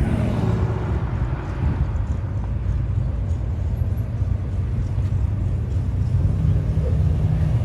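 A car engine running with a low, steady rumble, growing a little louder near the end.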